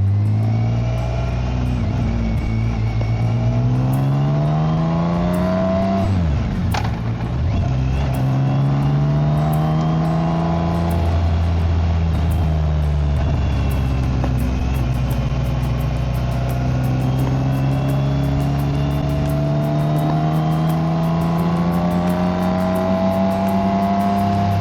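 BMW K1600GT motorcycle's inline-six engine and exhaust under way, the pitch rising as it accelerates. There is a brief dip about six seconds in, then the pitch climbs again and rises slowly as the bike gathers speed.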